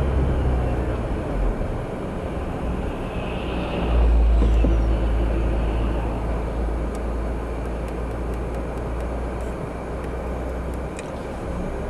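Road traffic noise: a steady hiss of passing vehicles, with a heavy low rumble swelling about four seconds in as a vehicle goes by, then easing.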